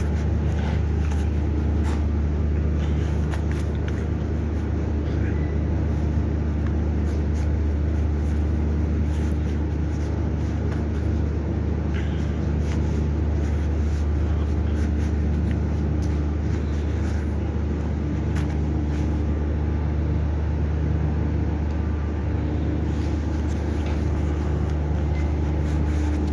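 A steady engine drone holding one pitch, with a few faint clicks over it.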